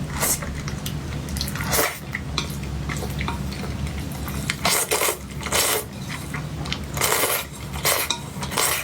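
Cutlery scraping and clinking against a plate while cake is eaten: a string of short strokes, several in a row, over a steady low hum.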